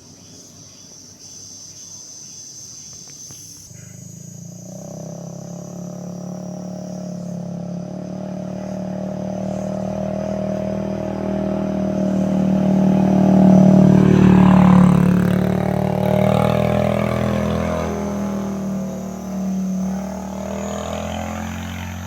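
A vehicle engine running with a steady pitch, starting a few seconds in, growing louder to a peak about two-thirds through, then fading.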